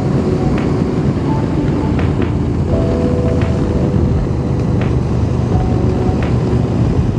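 Motorcycle engine running steadily at road speed, with a strong low hum under road and wind noise and a few faint clicks.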